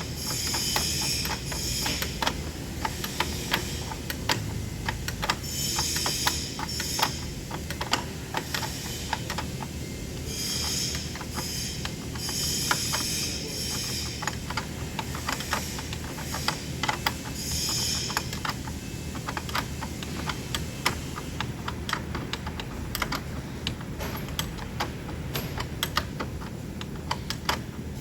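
Hand tools working on engine wiring and fittings: irregular metallic clicks and taps, with several stretches of rapid clicking like a ratchet wrench, over a steady low hum.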